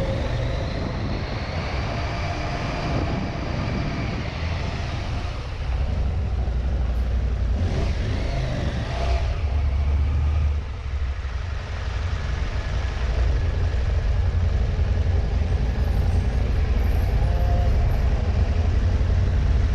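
KTM 790 Adventure motorcycle riding on the road: its parallel-twin engine running under a steady heavy rumble of wind and road noise.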